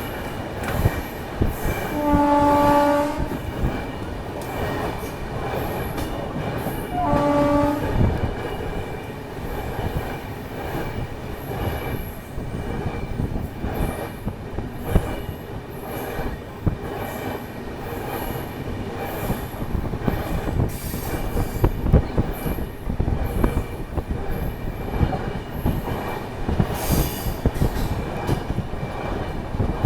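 Electric locomotive horn (WAP-7) sounding twice, a blast of about a second near the start and a shorter one about five seconds later, over the steady rumble and wheel clatter of the express train running at speed.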